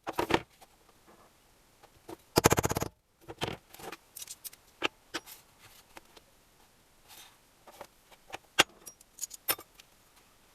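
Metal hand tools and engine parts clinking and tapping during engine assembly, with a short rapid run of clicks about two and a half seconds in, followed by scattered sharp taps and clinks.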